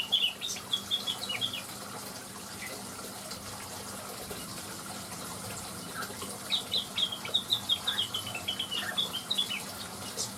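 Leafbird song: two runs of quick, chirping notes, one right at the start and a longer one from about six and a half seconds, over a steady background hiss.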